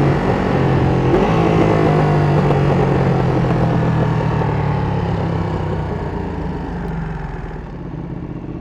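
Sport motorcycle engine running steadily, with rushing wind and road noise. Both engine and wind grow quieter over the last few seconds.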